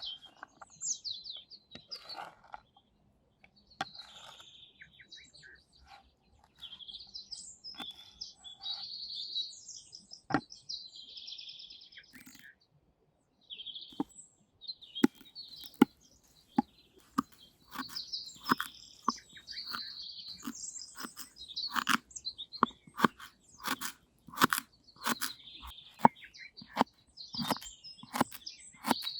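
Small birds chirping repeatedly in high bursts. Through the second half, a run of sharp, irregular crunches and clicks.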